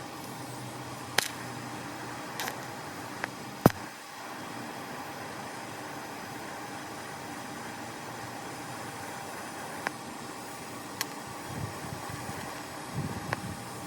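Steady fan-like hiss of a TIG welding setup, broken by scattered sharp clicks and taps; the loudest comes about four seconds in.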